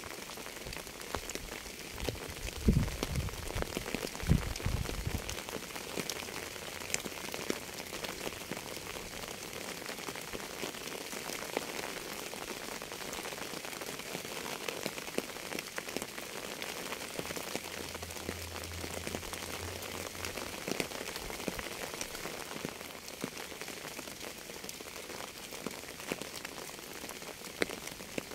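Steady rain falling on a surface, with many separate drops ticking. Two low thumps about three and four seconds in are the loudest sounds.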